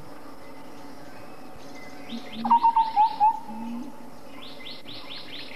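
Wild birds calling: a quick run of about five falling whistled notes a little over two seconds in, the loudest sound, with a lower held note beneath it, and a second, softer run of falling notes near the end, over a steady background hiss.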